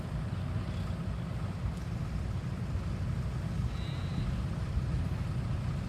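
Diesel engine of a CAT 320 GC hydraulic excavator running steadily with a low rumble. A brief high tone sounds about four seconds in.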